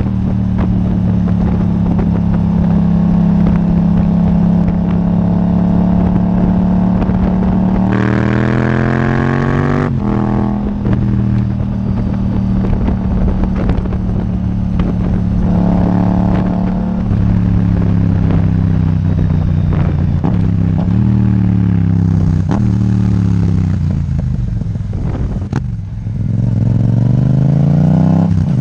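Yamaha MT-07's parallel-twin engine through an Akrapovic titanium exhaust, ridden on the road. It holds a steady speed, then climbs in pitch under hard acceleration about eight seconds in, and drops suddenly at a gear change or throttle-off about two seconds later. Later the pitch falls as the bike slows, and it rises again under acceleration near the end.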